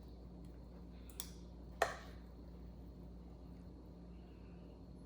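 Two short clicks of a kitchen utensil knocking against a pan or dish while cooked chicken and pepper filling is spooned into bread. The clicks come a little after one second and near two seconds, the second one louder, over a low steady hum.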